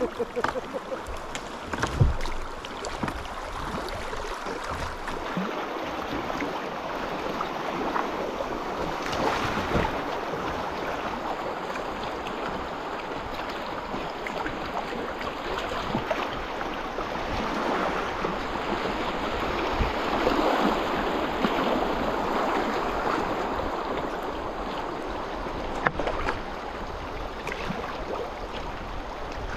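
River water rushing over a rocky riffle around a moving kayak. The rush swells about ten seconds in and again around twenty seconds, with a few sharp knocks.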